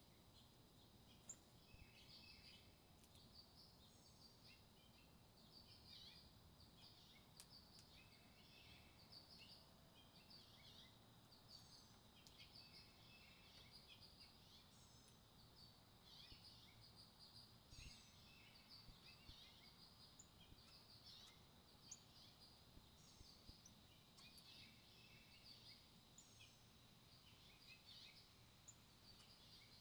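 Small songbirds chirping and calling, faint: many short high chirps and little trills scattered throughout, with a few brief clicks.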